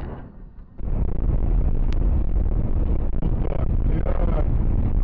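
The fading tail of a loud bang, then a steady low rumble of a car driving, with road and wind noise, that cuts in abruptly about a second in.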